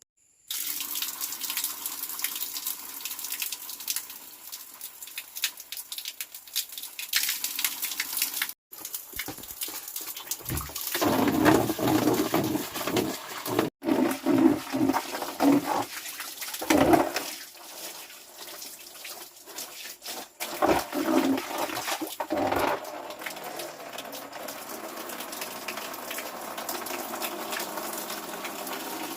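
Running water splashing, with louder uneven spells of splashing in the middle and a couple of abrupt breaks.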